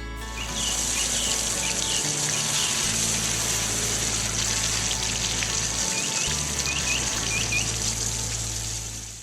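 Running water with a steady hiss, with short bird chirps over it, a few early and a cluster near the end, and low background music notes underneath.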